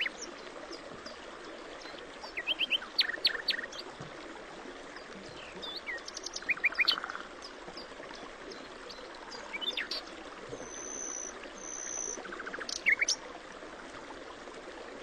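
Small birds chirping in about four short bursts of quick twitters, over a steady background hiss. A thin, high, steady whistle sounds twice, about two-thirds of the way through.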